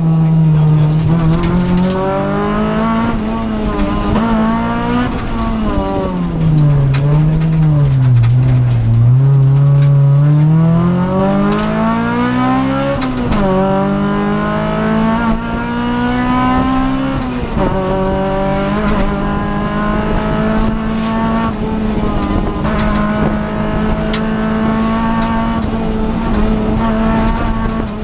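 Honda Civic rally car's four-cylinder VTEC engine at speed, heard from inside the cabin. The revs rise and fall through the first half, drop sharply with a gear change about halfway through, then hold at a steady high pitch.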